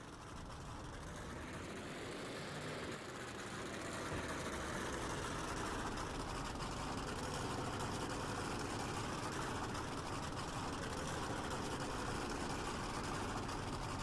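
Monster truck engine running at a low, steady speed, growing louder over the first few seconds and then holding even.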